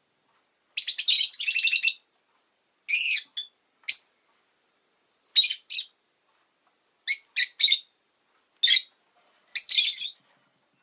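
Rosy-faced lovebird chirping: a rapid run of high chattering about a second in, then a string of short, sharp separate chirps with pauses between.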